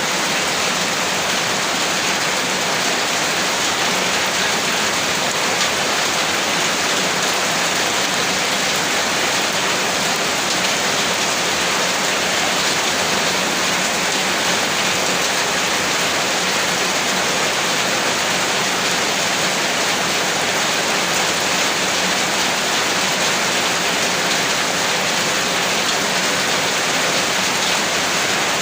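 Steady rain falling, an even unbroken hiss with no distinct drops, gusts or thunder standing out.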